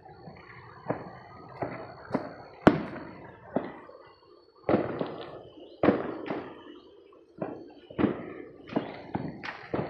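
Neighbourhood New Year's Eve fireworks and firecrackers: a string of sharp bangs at irregular intervals, some echoing, the loudest a little under three seconds in.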